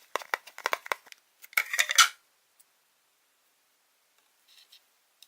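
A quick series of sharp clicks and taps from small hard plastic playdough tools or molds being handled, the loudest about two seconds in, then it stops.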